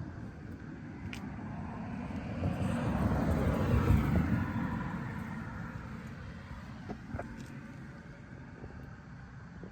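A vehicle passes by: a rumble that grows louder to a peak about four seconds in, then fades away.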